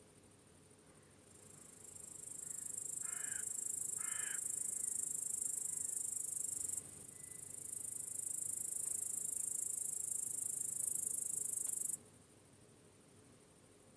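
Crickets chirping in a dense, high-pitched chorus that swells in about a second and a half in, drops out suddenly near the middle, returns, and stops suddenly near the end. Two short harsh bird calls come about a second apart early on.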